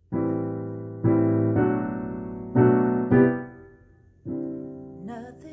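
Slow piano introduction to a ballad: six chords struck about a second apart, each ringing and fading before the next.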